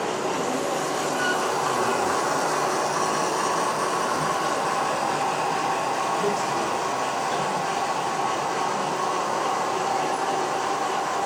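H0-scale model train running on the layout, a steady hum with faint held tones over a general background noise.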